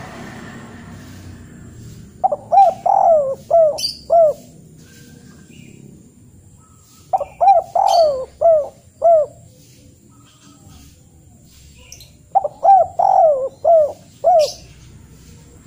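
A bird calling three times, each a quick phrase of five or six short notes, the phrases about five seconds apart.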